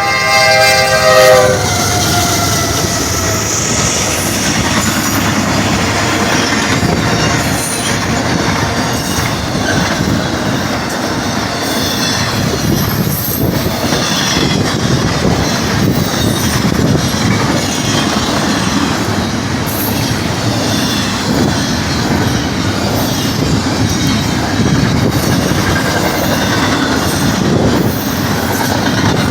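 Locomotive horn sounding a chord that cuts off about a second and a half in. It is followed by the train passing close by: a steady loud rumble of wheels on rail with clickety-clack over the joints and faint intermittent wheel squeal.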